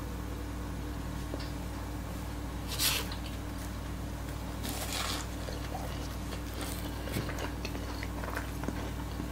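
Quiet wet mouth sounds of someone chewing food, with a couple of soft swells and small clicks over a steady low hum.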